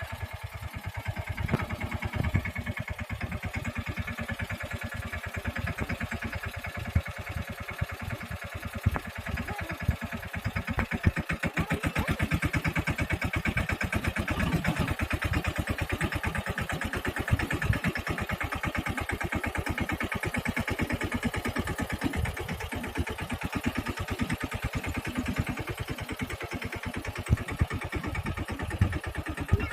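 Mahindra Yuvraj 215 mini tractor's single-cylinder diesel engine running steadily with a fast, even thudding beat, driving a rotavator; it grows louder about twelve seconds in.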